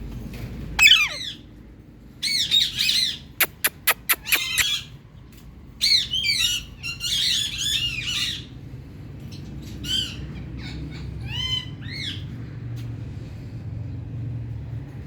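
Ringneck parakeets squawking in bursts of short, sweeping calls, the loudest a falling screech about a second in. A quick run of about six sharp clicks comes around the four-second mark.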